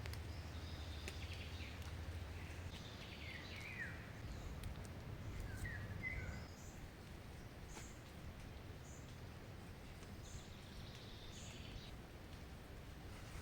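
Forest birds calling: scattered short chirps and a few falling notes, over a low background rumble that drops away about six seconds in.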